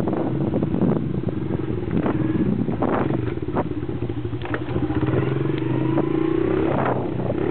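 Honda CRF70F dirt bike's small four-stroke single-cylinder engine running while ridden, with scattered clattering knocks over the steady engine note. The engine note climbs a little about two-thirds of the way through, then falls away near the end.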